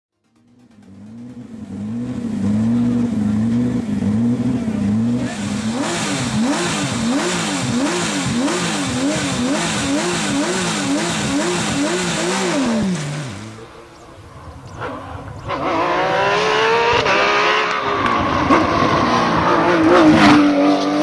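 Porsche 911 GT3 rally car's flat-six engine at high revs, its pitch rising and falling about once a second as the driver works the throttle and gears, then dropping away as the car passes. A second pass follows about two thirds of the way through, with the engine climbing again and a few sharp cracks near the end.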